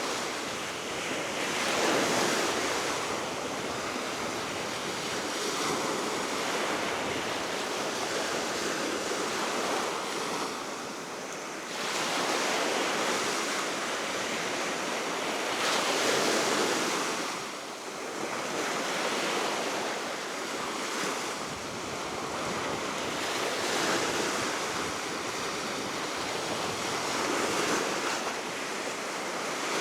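Baltic Sea waves breaking and washing ashore in repeated surges every few seconds, over a steady wind.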